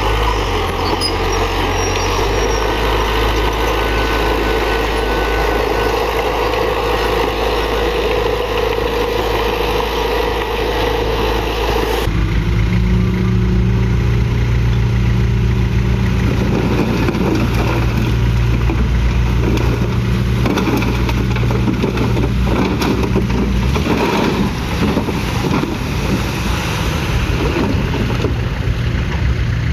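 Heavy diesel earthmoving machinery running steadily. The engine note changes abruptly about twelve seconds in, and after that there is irregular clanking mixed in with the engine.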